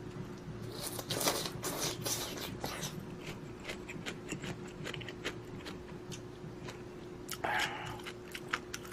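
Close-up eating sounds of instant budae-jjigae ramen being eaten: chewing with many small clicks and a few short noisy bursts, over a faint steady hum.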